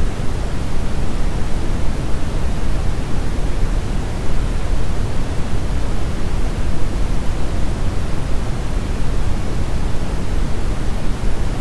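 Brown noise: a steady, even rumbling hiss, strongest in the low end and thinning toward the highs, with no changes or events.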